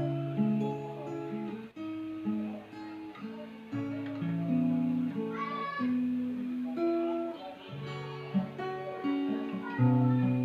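Acoustic guitar playing a slow instrumental intro, with held chords and single notes changing every second or so.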